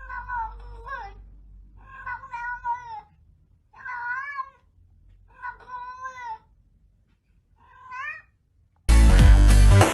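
A cat meowing five times, each meow drawn out with a wavering, bending pitch, about every one and a half to two seconds. Loud music cuts in near the end.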